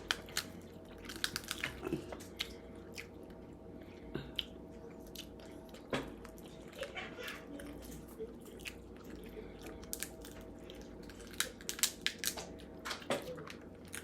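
Close-up crab eating: scattered sharp cracks and clicks of crab shell being broken and picked apart, with chewing and mouth sounds between. The cracking is busiest about a second in and again near the end.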